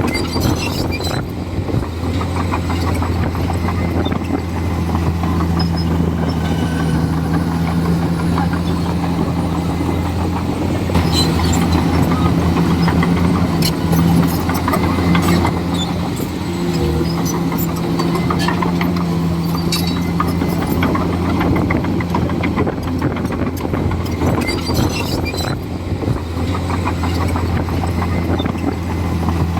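Komatsu D41E bulldozer's diesel engine running steadily under work, its note shifting a few times, with scattered metallic clanks.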